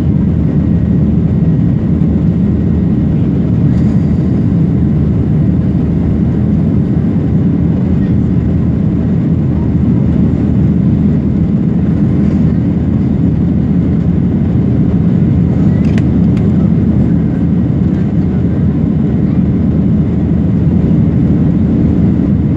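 Airliner engine noise: a steady low rumble that holds the same level throughout.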